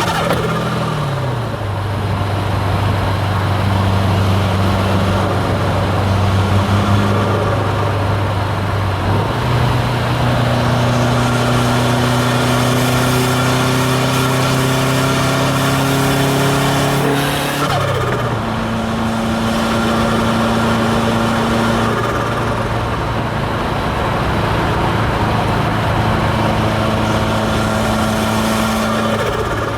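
Hybrid-turbo Subaru WRX STI's turbocharged flat-four running at a steady engine speed while driving, over road noise. The engine note drops about a second in and changes pitch again around nine and eighteen seconds.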